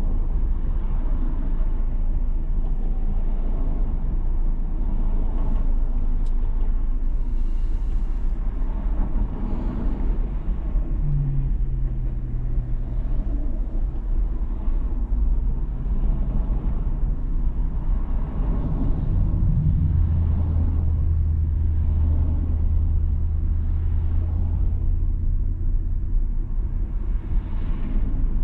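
2019 Toyota 4Runner TRD Pro driving in traffic: steady low engine and road rumble. A low hum comes in briefly before the middle, and a stronger low drone holds for several seconds in the second half.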